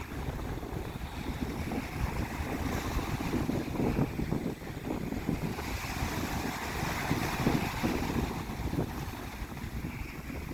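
Wind gusting against the microphone over a steady wash of water and small waves, with no engine running.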